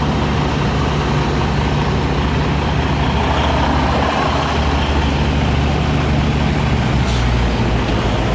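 Semi truck's diesel engine running steadily as the truck reverses, with a short hiss about seven seconds in.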